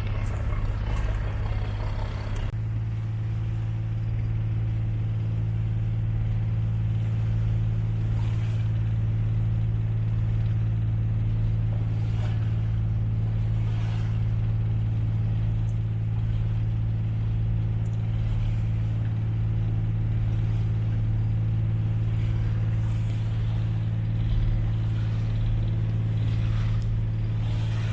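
A tour boat's engine running under way, heard on board as a steady low drone. The drone settles into an even hum about two and a half seconds in.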